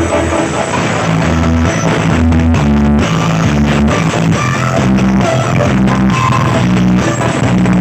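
Loud music with heavy, pounding bass notes played through a large sound-check rig (a Harmonis Audio sound system).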